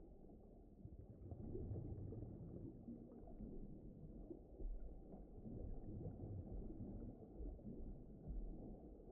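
Low, muffled rumbling noise that swells and eases unevenly, with nothing in the upper range: a steady sleep-sound ambience bed.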